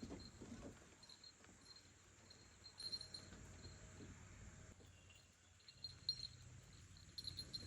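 Faint cricket chirping in short repeated bursts, over quiet low room noise.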